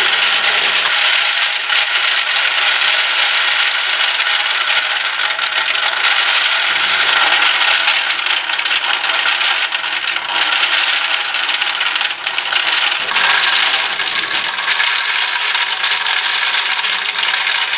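Nuts poured and shaken into a metal tube bird feeder: a steady loud rattle that gets brighter about thirteen seconds in.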